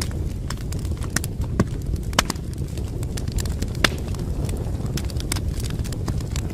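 Wood fire crackling: irregular sharp pops and snaps over a steady low rumble of burning logs, with the loudest snaps about two and four seconds in.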